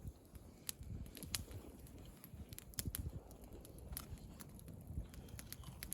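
Wood campfire crackling, with scattered sharp pops at irregular intervals.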